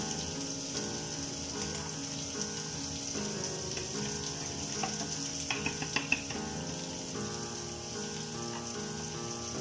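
Food frying and sizzling in a wok on a gas burner, a steady hiss, with a few sharp clinks of utensils or a bowl about five to six seconds in. Background music plays over it.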